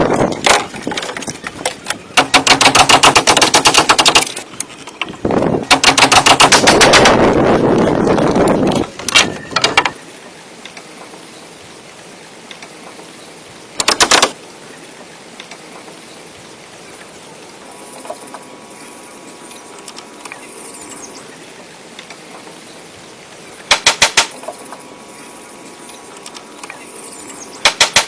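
A power woodworking tool working hardwood in bursts of rapid, evenly spaced impacts, many a second, with short pauses between bursts and longer quiet stretches in the second half.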